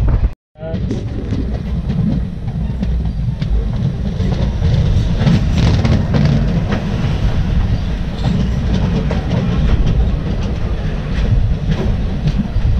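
Two trains crossing at speed on adjacent tracks, heard from the open doorway of one: a loud, steady rush and rumble with the rapid clickety-clack of the passing coaches' wheels over the rail joints. The sound cuts out briefly about half a second in.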